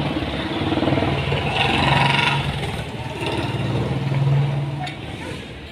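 An engine or motor running with a steady low hum that swells twice, with a short burst of hiss about two seconds in.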